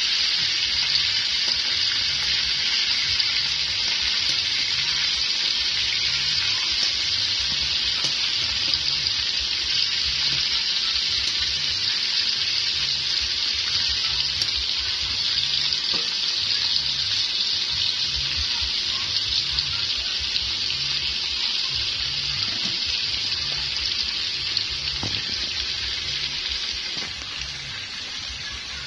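Ribs sizzling in hot fat in a steel wok, a steady frying hiss that fades slightly near the end.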